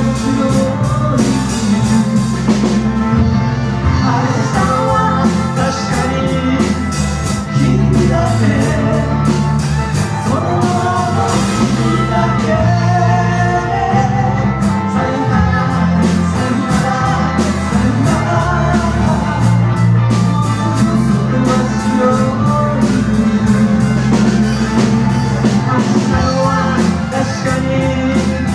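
A live rock band playing a song: a drum kit keeping a steady beat under bass and guitar.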